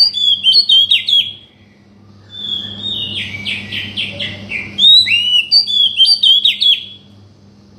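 Oriental magpie-robin (kacer) singing: two spells of quick, varied whistled notes with rising and falling sweeps, separated by a pause of about a second. A steady low hum runs underneath.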